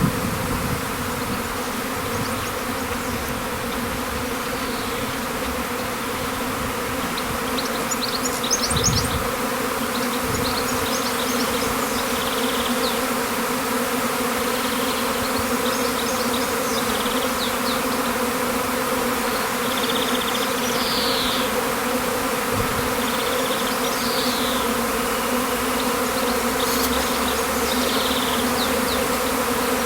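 A honeybee swarm in flight: the steady hum of many beating wings, one low note with its overtones, holding level throughout. A brief low rumble comes about nine seconds in.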